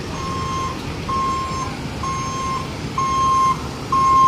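A truck's reversing alarm beeping about once a second, each beep a steady high tone lasting about half a second and growing louder, over the low rumble of the truck's engine.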